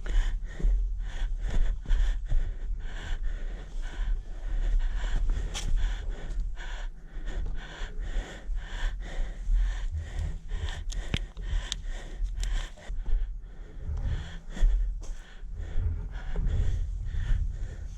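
Adventure motorcycle ride heard on a rider-worn microphone: a constant low rumble of wind and engine, with frequent short knocks and rattles and breathy huffs.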